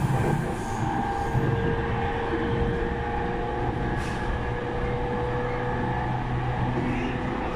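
Running sound of a JR East E231-1000 series electric train between stations, heard from inside the car: a steady whine over the continuous rumble of the wheels on the rails.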